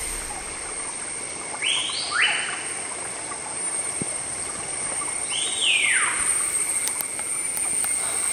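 Forest bird giving descending whistled calls, two short ones close together about two seconds in and a longer falling one about six seconds in, over a steady high-pitched whine.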